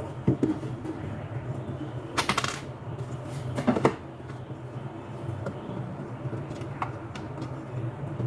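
A few sharp clinks and rattles of small hard objects being handled, loudest a little after two seconds in and again near four seconds, over a steady low hum.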